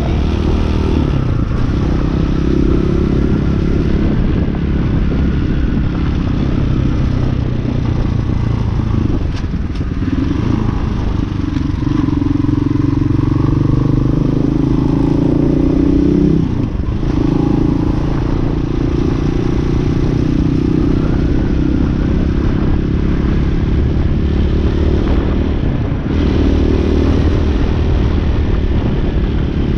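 Hawk 250cc dirt bike's single-cylinder engine running under way, its pitch shifting as the rider works the throttle, with a brief drop in engine sound about two thirds of the way through, as at a gear change.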